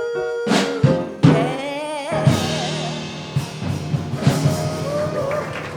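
A live band plays the song's closing bars: a few sharp drum hits in the first second or so, then a final chord with a cymbal wash and a wavering held sung note over it.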